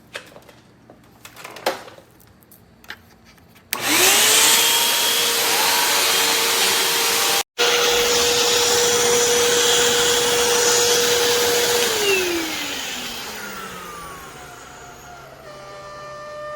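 Hoover WindTunnel upright vacuum cleaner switched on after a few small handling clicks. Its motor spins up quickly to a steady, loud whine and runs evenly, with a brief dropout about halfway. It is then switched off and winds down, its pitch falling.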